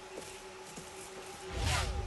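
Tense, quiet television background score of held tones. Near the end a low rumble swells in with a quick whoosh sound effect.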